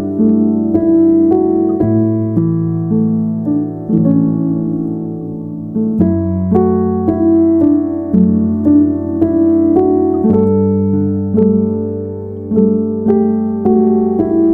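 Background piano music: gentle sustained chords over a slow-moving bass line.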